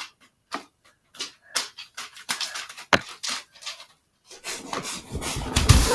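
Paper money rustling and flicking in short scratchy bursts, with loud rumbling handling noise on the microphone from about four and a half seconds in.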